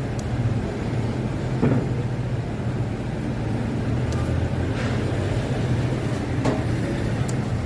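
A steady low mechanical hum of a running motor or engine, with a few sharp metallic clicks and knocks scattered through it, about five in all.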